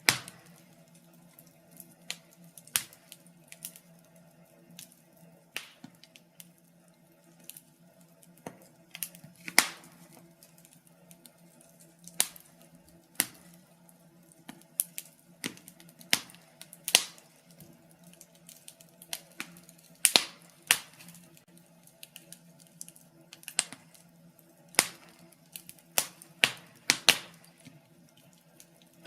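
Wood fire in a fireplace crackling, with irregular sharp pops and snaps a second or two apart, some much louder than others, over a faint steady low hum.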